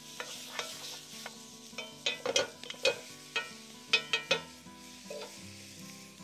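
Ground venison sizzling in a Dutch oven while a utensil chops and scrapes at it. A quick run of sharp scraping strikes comes in the middle, over a steady sizzle.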